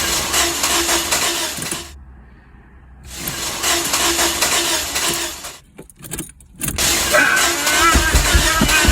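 Car engine cranking on the starter without catching, in three separate tries of about two seconds each, with short pauses between them; the engine will not start.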